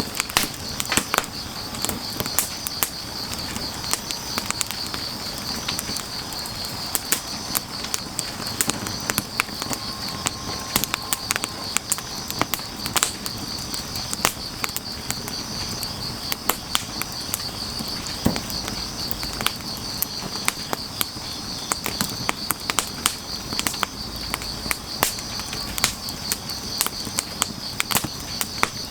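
Wood fire crackling, with frequent sharp pops and snaps, over a steady high chirring of grass insects.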